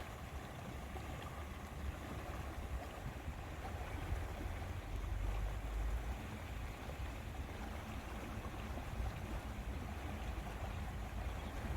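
Lakeside wind ambience: a steady wash of noise with low wind rumble on the microphone, swelling for a couple of seconds around the middle.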